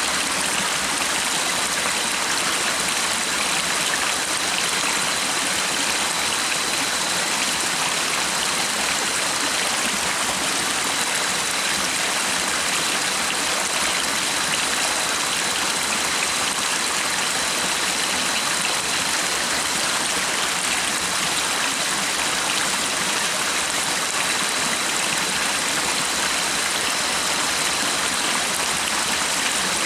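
Steady rushing of a flowing stream, an even hiss of water without a break. A faint thin high tone sits steadily above it.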